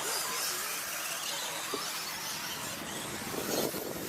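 1/10-scale electric brushless RC stadium trucks racing, their motors and gears whining at high pitch over tyre noise, with a few short clicks and a briefly louder stretch about three and a half seconds in.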